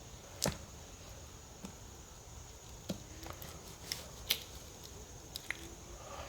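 A few sharp, scattered clicks and scrapes from an uncapping fork working the wax cappings off a honeycomb frame, the loudest about half a second in.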